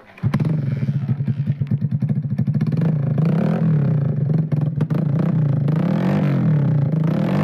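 Hero Splendor's single-cylinder engine running through an aftermarket SC exhaust silencer. It comes in suddenly just after the start and runs with a choppy, uneven beat. From about three seconds in it is blipped, rising and falling in pitch again and again.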